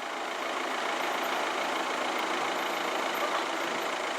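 Class 158 diesel multiple unit running past on the line, a steady rushing rumble that grows slightly louder.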